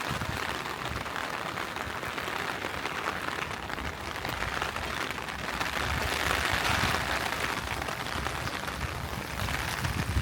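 Steady hiss of falling water, swelling slightly about six seconds in.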